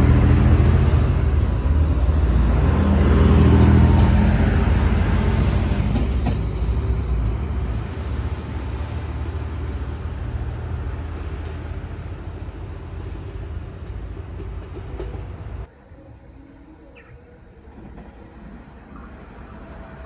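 DSB IC3 diesel multiple unit running away from the listener, its engine hum and track rumble loud at first and fading steadily. About two-thirds of the way through the sound cuts to a much quieter station background, in which the next train's approach slowly grows louder near the end.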